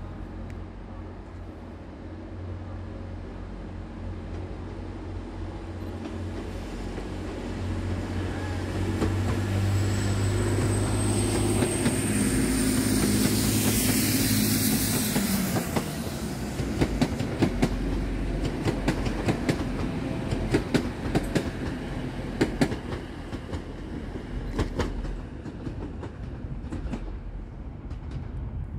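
A multiple-unit train running through the platforms. Its engine hum builds to a peak with a high whistle over it, then cuts away about halfway through, followed by a long run of sharp clacks from wheels going over rail joints.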